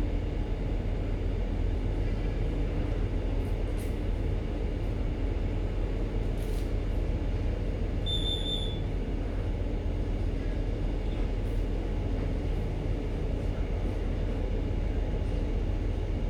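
Steady low drone of a ship's engine and machinery running while manoeuvring, with a short high electronic beep about eight seconds in.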